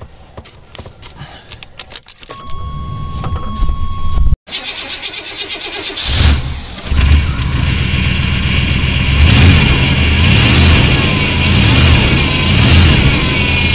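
Cold start of a fuel-injected 1990-era GMC one-ton dually pickup that has sat for a week: clicks and a steady chime, then the starter cranks and the engine catches about six seconds in and runs, revved up and down several times near the end.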